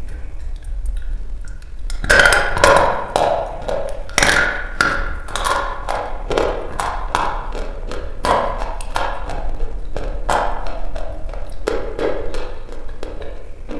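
Dry red chalk bitten off with a sharp crunch about two seconds in, then chewed in a steady run of crisp, gritty crunches close to the microphone.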